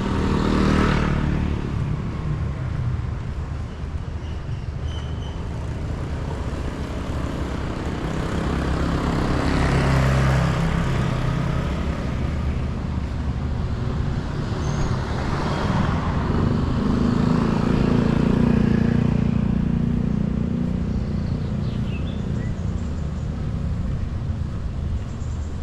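Road traffic: several motor vehicles pass one after another, each engine swelling and fading, the last and longest a few seconds past the middle.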